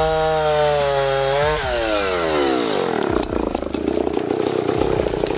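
Two-stroke chainsaw running at full throttle with a steady high whine. About a second and a half in, its pitch sags as the engine comes under load, and it goes on with a rougher, uneven note as the chain bites into the wood.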